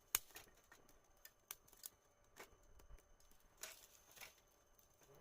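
Campfire crackling: wood snapping and popping in scattered, irregular sharp cracks, the loudest just after the start.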